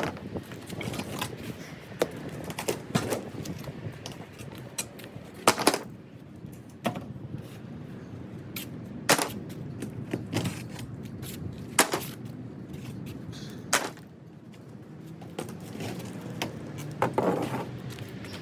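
Wooden dog house being knocked apart during demolition: a dozen or so sharp knocks and cracks of wood at irregular intervals, a second to a few seconds apart.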